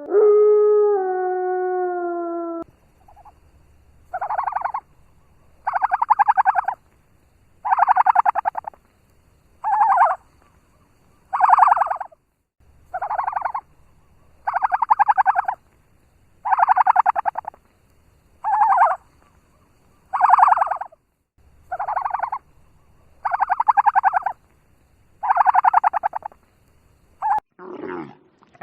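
A long, steady, pitched howl ends a few seconds in. An animal then calls about fourteen times at an even pace, each call a pulsing, buzzy sound about a second long.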